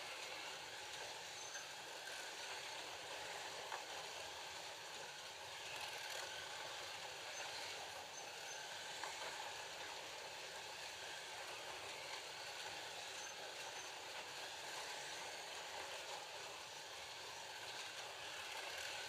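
FLY Classic slot cars with 19K electric motors running laps: a steady whirring of the small motors and the cars on the track, with a few faint ticks.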